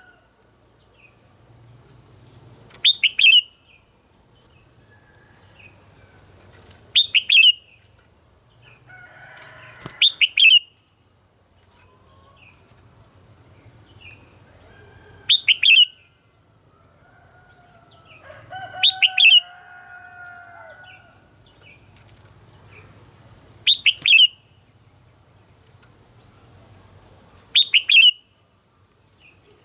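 Red-whiskered bulbul singing short, loud, sharp phrases, seven of them at intervals of about four seconds. Fainter, lower bird calls fill the gaps, with one drawn-out lower call about two-thirds of the way through.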